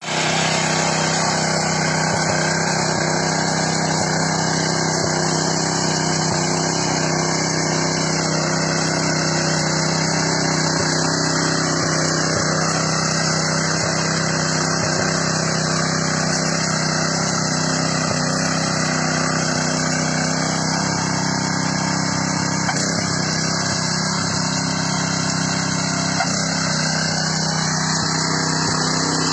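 Six-horsepower four-stroke petrol engine of a mini power tiller running at a steady speed.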